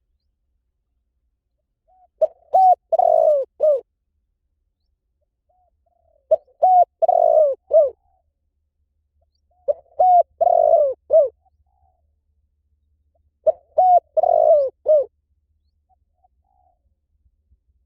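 Spotted dove cooing: four phrases a few seconds apart, each a couple of short notes running into a longer coo and a clipped final note.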